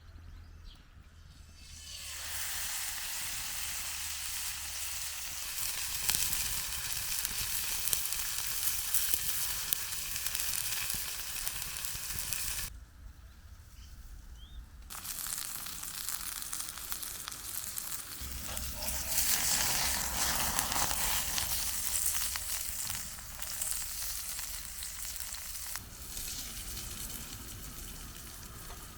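Food sizzling and frying in a hot pan, a steady hiss that drops away for about two seconds near the middle and then comes back.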